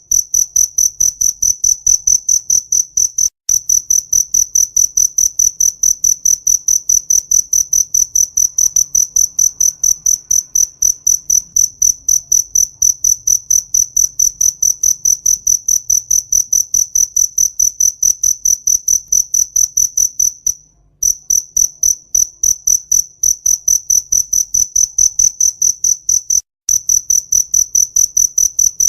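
Cricket chirping, a high, even chirp repeated about three times a second, breaking off briefly three times.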